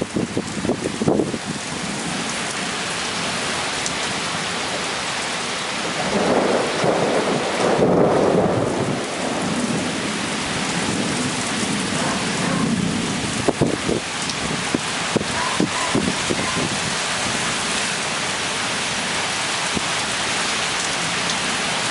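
Heavy thunderstorm rain pouring steadily, with thunder rumbling in a long swell about a third of the way in and again a little past halfway.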